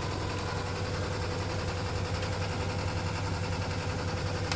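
A boat's engine running steadily with a low, rattling hum.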